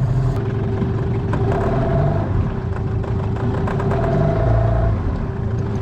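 Small boat's motor running steadily, its pitch rising twice as it is given more throttle, likely to work the boat back over a snagged lure.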